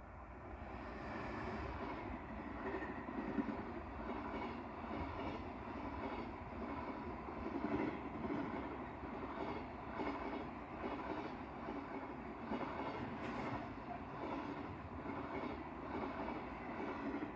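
Electric commuter train at a station platform, a steady rumble and hum.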